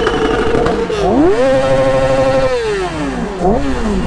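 Superbike engine revved hard while standing: held at high revs, let drop about a second in, revved back up and held for about a second, then let fall, with a short blip near the end.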